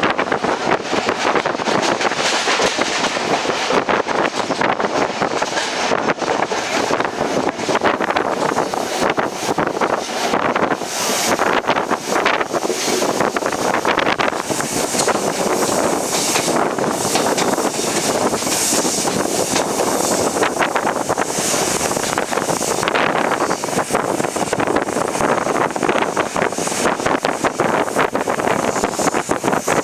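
Express train with ICF coaches running at speed, heard on board: a steady rumble of wheels on the rails with a dense clatter of rattles, and wind buffeting the microphone.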